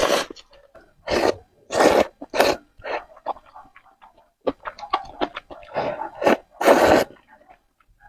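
Close-miked eating mouth sounds: about six loud, short bursts, with quick chewing clicks in between.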